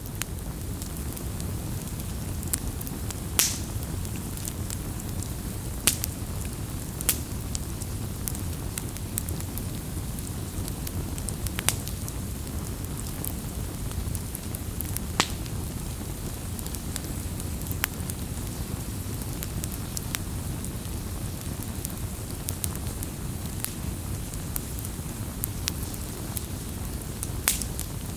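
Wood fire crackling: scattered sharp pops and snaps, a few of them louder, over a steady low rush of burning.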